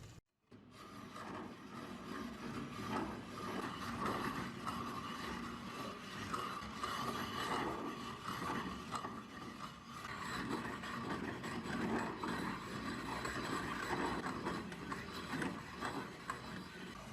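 Restored antique ice crusher being worked, its gears and crushing mechanism grinding and clicking unevenly. It starts just after a brief dropout near the start.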